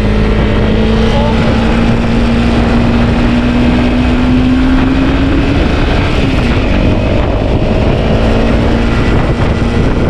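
Dirt bike engine running under way, its note rising slowly for about five seconds, dipping briefly, then steady again. A low rumble of wind on the microphone runs underneath.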